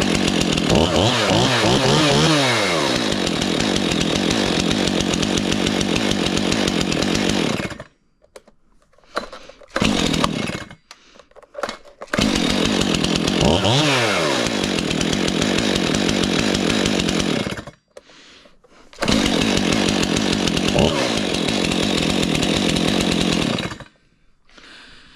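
Two-stroke chainsaw on a cold start, running and revving up and back down. It stops about eight seconds in, gives a few short bursts, then runs again twice, each run ending abruptly.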